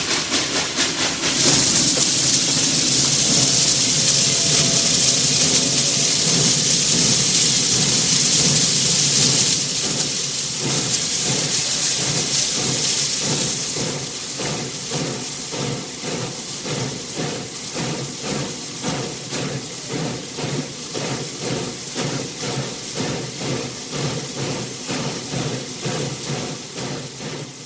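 Steam locomotive at a stop releasing steam: a loud hiss that starts about a second and a half in, eases after about ten seconds and dies away by about fourteen. Under it runs a steady rhythmic pulsing that carries on after the hiss and fades out at the end.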